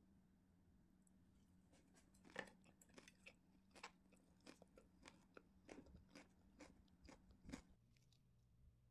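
Faint, irregular crisp crunches of someone chewing a perilla-leaf wrap of chicken ham with raw bell pepper and cucumber strips. The crunches begin about two seconds in and stop near the end, over a faint steady low hum.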